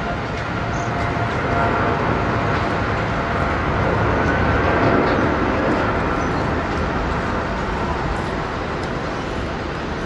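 Jet airliner engines running at taxi power: a steady rumble with a faint whine, growing a little louder midway and easing off again.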